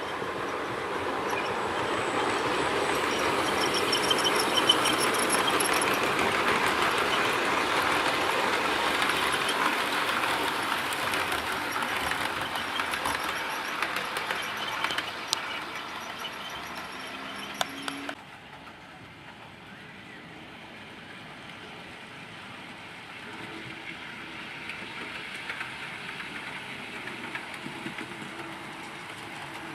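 OO gauge model train running on the track, a steady mechanical running sound with scattered small clicks, growing louder over the first few seconds. About eighteen seconds in it drops abruptly to a quieter running sound that carries on.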